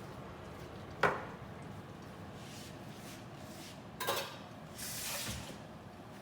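A utensil clinking against a cooking pot, once about a second in and again about four seconds in, followed by a short scraping swish.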